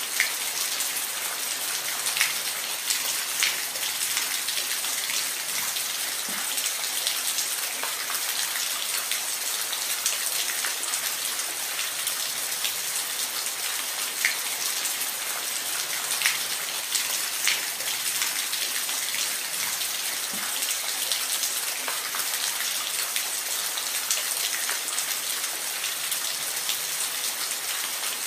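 Falling water hissing steadily, with scattered sharper splashes and drips standing out every second or two.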